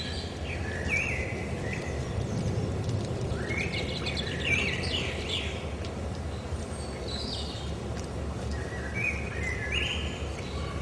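Small birds calling in short bursts of chirps every two to three seconds, over a steady low background noise.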